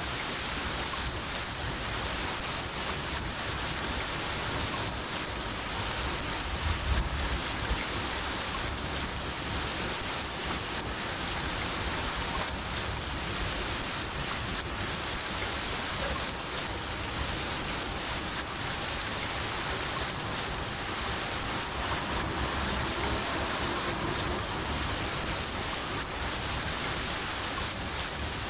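A cricket chirping steadily at about three chirps a second over steady rain, with low rumbles of thunder at times.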